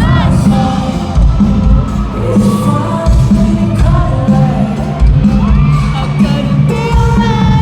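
Live pop music played loud through a concert sound system: a heavy bass beat under singing, with the crowd cheering and whooping.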